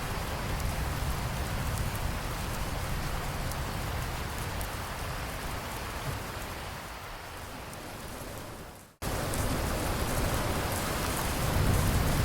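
Steady rain falling, an even hiss of drops. It fades out about eight seconds in, goes silent for an instant, then cuts back in abruptly, as at a loop splice in the recording, with a low rumble building near the end.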